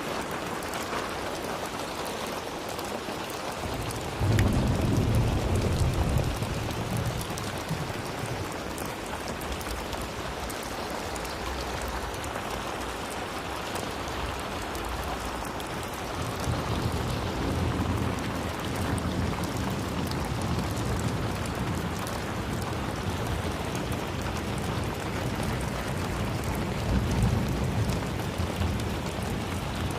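Steady rain falling in an even hiss. A low rumble of thunder starts suddenly about four seconds in, and further rolls of thunder come through the second half, loudest near the end.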